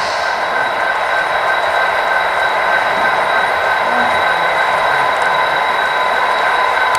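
HO scale model trains running on a layout, a steady whirring hum of motors and wheels on track.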